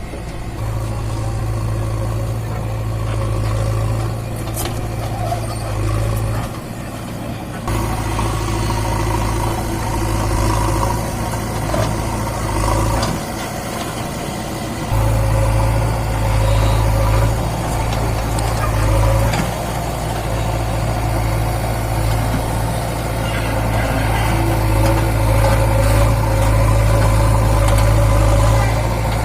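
Mahindra 575 DI tractor's four-cylinder diesel engine running steadily while hauling a fully loaded trolley, with a deep low rumble; it dips briefly twice and grows louder about halfway through.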